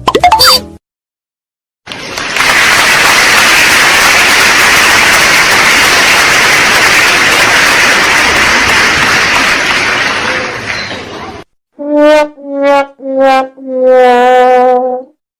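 About ten seconds of loud, even noise, then a brass 'sad trombone' comic effect: three short notes stepping down and a fourth held longer with a wobble, the classic 'wah-wah-wah-waaah' failure sting.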